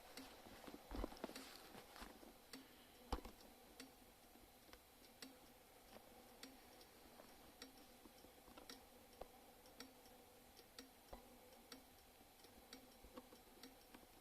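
Near silence with faint, sharp ticking at roughly two ticks a second over a faint steady hum, with a few louder knocks in the first few seconds.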